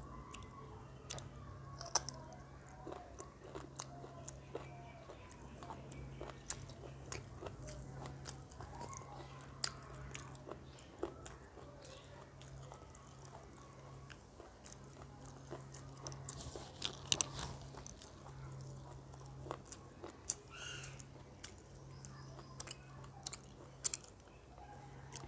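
A person chewing and biting a mouthful of rice and chicken curry, with many small scattered clicks and crunches of mouth sounds. A faint low hum runs underneath, breaking off now and then.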